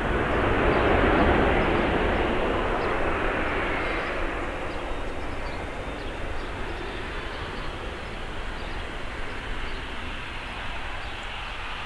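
Passenger aircraft passing close by, its engine noise loudest about a second in and then slowly fading away.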